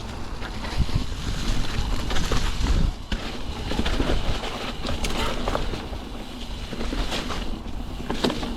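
Mountain bike riding down a snowy, muddy trail: wind rushing over the microphone, tyres rolling through mud and snow, and the bike rattling and knocking over bumps.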